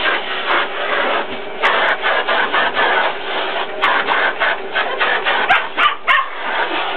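Vacuum cleaner running steadily while a German Spitz puppy barks and yips at it, with a few sharp yips about five and a half to six seconds in.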